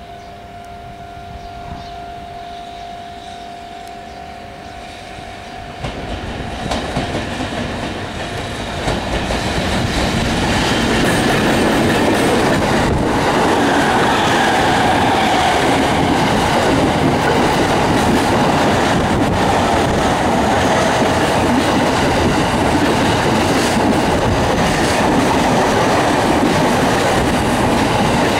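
Electric trains running past on the main line: the EF65 locomotive with its container freight wagons, then an E231-series commuter train running close by. Over the first few seconds two steady tones sound above a moderate rumble. The noise swells at about six and again about ten seconds in into a loud, even rush of wheels on rails, with scattered clicks from the rail joints.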